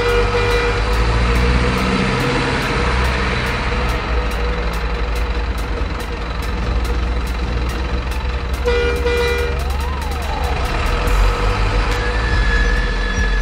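Truck engine sound: a steady, heavy low rumble, with a short horn-like tone about nine seconds in and a brief rising-and-falling whine just after it.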